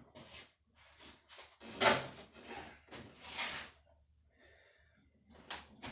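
A series of short rustling, scraping noises, the loudest about two seconds in, then a lull before two more near the end: handling noise.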